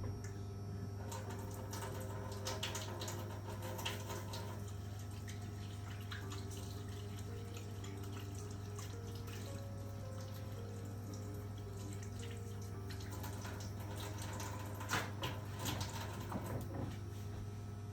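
Kitchen tap running into a sink while hands are washed, with small clicks and clatter, over a steady low hum.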